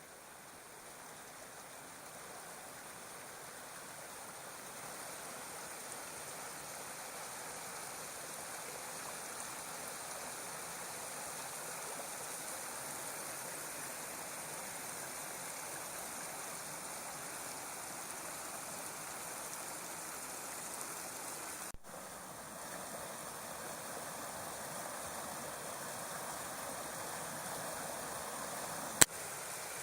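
Water of a small stream (a burn) rushing steadily over its bed, growing louder over the first ten seconds or so. A single sharp click sounds near the end.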